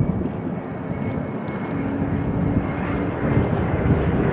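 Jet airliner's engines on its landing approach, a steady rushing noise with a faint high whine, growing louder toward the end.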